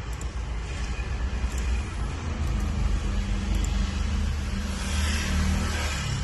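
A motor vehicle's engine running with a low rumble and a steady drone, louder from about two seconds in, with a hiss rising near the end.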